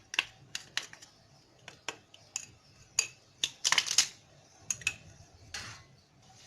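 A metal spoon tapping and clinking against a dish in a run of sharp clicks, thickest about four seconds in, as a spoonful of cornstarch is knocked into lemon juice.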